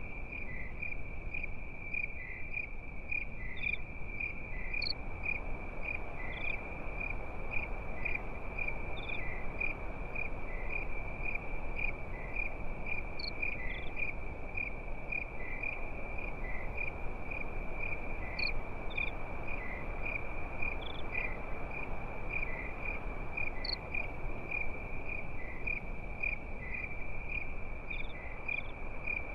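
Crickets chirping in a steady, evenly pulsing trill, with a few scattered higher chirps and faint ticks over a constant low hiss.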